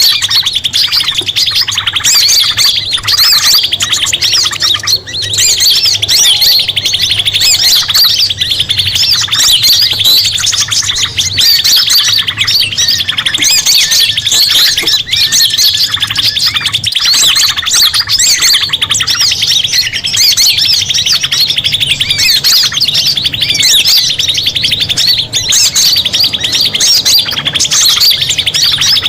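Bird-lure track of mixed small songbird calls: dense high chirps and twitters over a steady, rapid trill, loud and unbroken.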